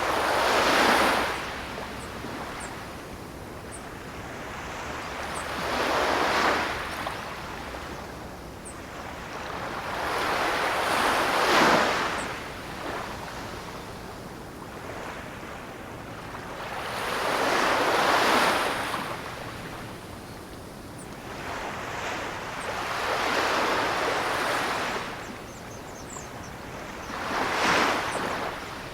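Ocean waves surging in a slow, regular rhythm: six swells about five to six seconds apart, each rising and then falling away.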